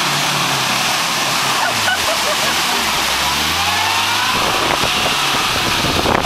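First-generation Range Rover's engine revving under load as it ploughs through deep mud, its pitch climbing and then dropping back about four seconds in.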